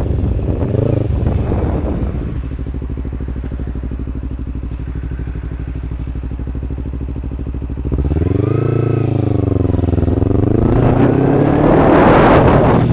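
Kawasaki Ninja 250R parallel-twin engine: it slows down, idles steadily for about five seconds, then is revved around eight seconds in and pulls away, rising in pitch as wind noise on the microphone builds.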